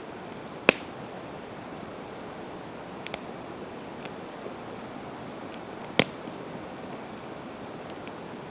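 Campfire of split evergreen wood crackling over a steady hiss, with two sharp pops, the louder one near the end. A faint insect chirps about twice a second through most of it.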